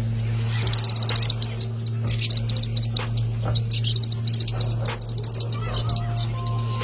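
Rapid runs of high-pitched chirping calls, typical of a small bird chattering, coming in irregular bursts from about half a second in. A steady low hum runs underneath.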